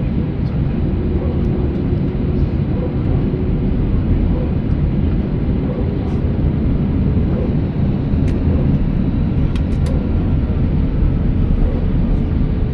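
Steady low rumble of an Airbus A319-100 airliner heard from inside the passenger cabin, the engines and airflow running evenly.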